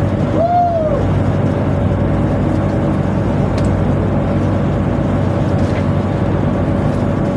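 Steady, loud drone of a tugboat's engine and deck machinery running while the towing rope is hauled in, with one short rising-and-falling tone about half a second in.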